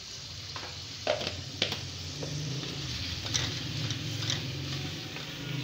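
Potato chunks sizzling in hot oil in a pot as a wooden spoon stirs in the freshly added salt, chilli powder and turmeric. The spoon knocks and scrapes against the pot several times, over a low hum.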